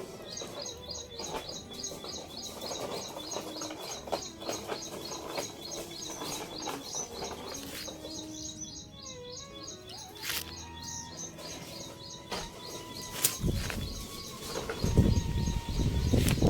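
A bird chirping in a fast, even series of high chirps, several a second. A loud low rumble comes in near the end.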